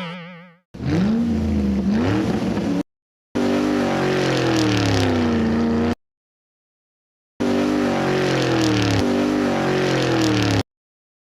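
Three separate edited-in clips of a car engine revving, each two to three seconds long, its pitch sliding down and back up, with dead silence cut in between them.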